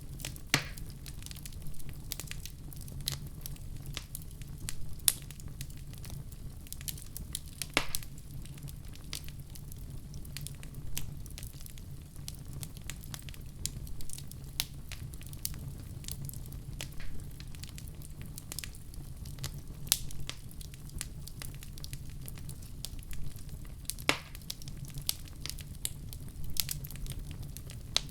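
Wood fire crackling in a fireplace: a steady low rumble of the flames with frequent irregular snaps and pops, a few louder pops standing out.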